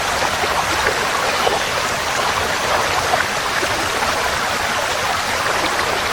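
Forest stream flowing over rocks, a steady rushing with many small splashes and gurgles.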